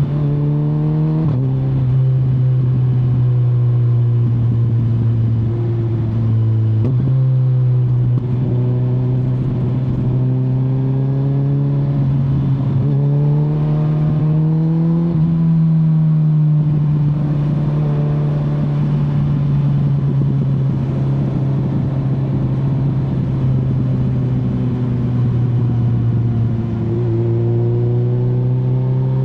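Kawasaki Z900's inline-four engine running under way, the note stepping abruptly in pitch with gear changes about a second in, near seven seconds and near the end, and rising and falling more slowly with the throttle in between.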